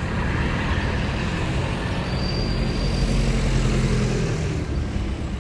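Road traffic with a large vehicle's engine passing close, its drone swelling through the middle and easing near the end.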